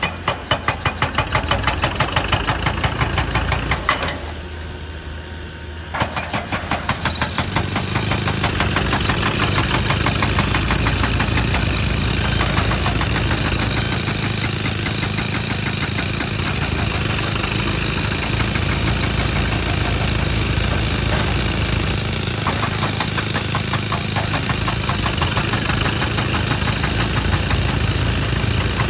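Hydraulic rock breaker on a JCB excavator hammering rock in a rapid, steady train of blows over the running engine. It stops for about two seconds about four seconds in, leaving the engine, then resumes.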